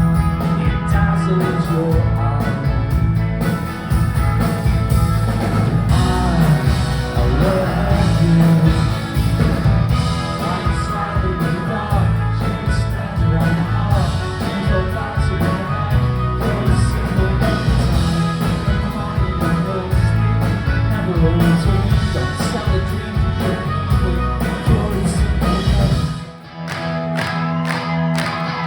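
Live rock band playing an upbeat guitar-pop song, with bass and drums under guitars and keyboards. About two seconds before the end, the bass and drums drop out, leaving the higher instruments.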